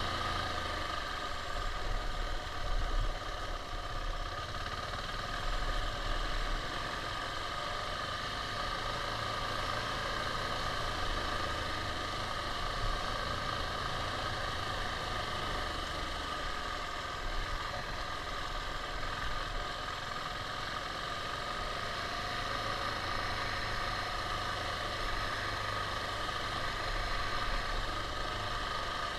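KTM 690's single-cylinder engine running steadily, with a low rumble that comes and goes.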